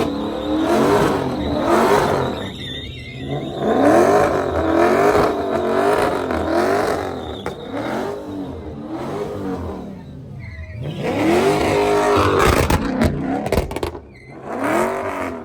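Car engine revved up and down over and over, about once a second, with the screech of spinning tyres, as a car slides round in circles doing donuts. The revving dips briefly about ten seconds in, then comes back loudest.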